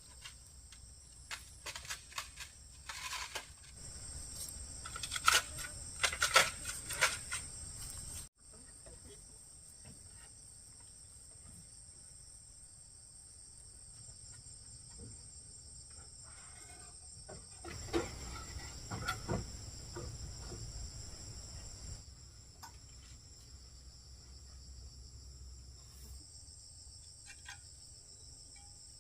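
Insects chirring steadily in a high, even drone. Over the drone come sharp knocks and clatter from handwork, heaviest in the first eight seconds and again around eighteen to twenty seconds in.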